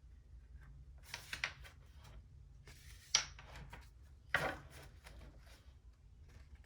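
Tarot cards being handled: a few short papery snaps and rustles, a quick cluster about a second in and single ones at about three and four seconds, over a faint steady hum.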